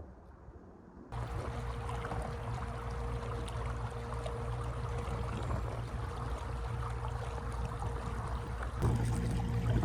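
Electric trolling motor switching on about a second in and running with a steady hum over churning water from the propeller; it gets louder near the end.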